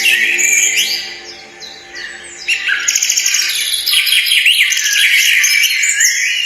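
Songbirds chirping, with many quick overlapping chirps and short whistled glides. The birds drop quieter for about a second near the start, then come back busy.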